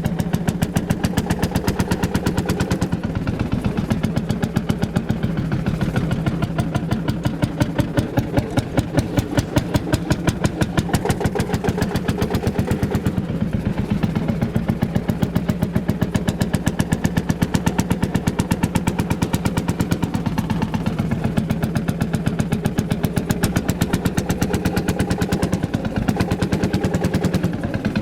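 Ursus C-451 tractor's single-cylinder two-stroke hot-bulb engine running with an even, rapid pulsing beat that rises and falls slightly in loudness.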